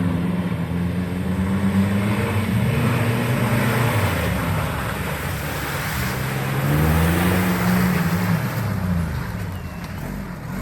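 Off-road 4x4's engine revving under load, its pitch repeatedly rising and falling, loudest about two-thirds of the way through and easing off near the end.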